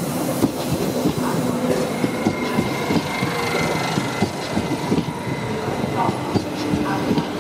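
Electric multiple unit passenger train rolling slowly past along a station platform: a steady rumble, with the wheels clicking repeatedly over rail joints and points and a faint high wheel squeal.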